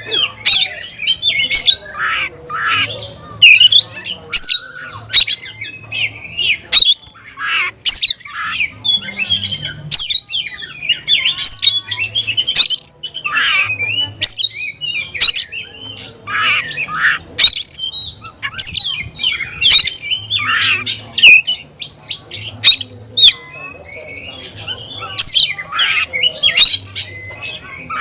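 Oriental magpie-robin (kacer) singing hard: a loud, unbroken run of short, harsh chattering notes and quick whistles, several a second.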